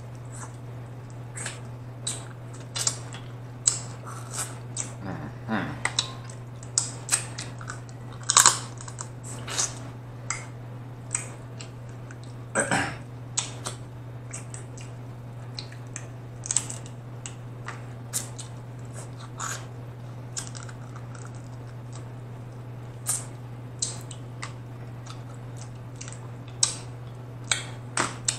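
Close-miked eating sounds of a seafood boil: irregular wet smacks and sharp clicks of chewing and of shrimp shells being peeled by hand. A steady low hum runs underneath.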